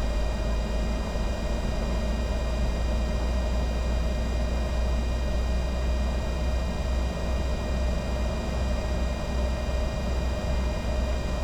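Steady cockpit noise of a Bombardier Challenger 605 business jet in flight on approach: a constant rush of airflow over a deep rumble, with several steady high-pitched whine tones over it.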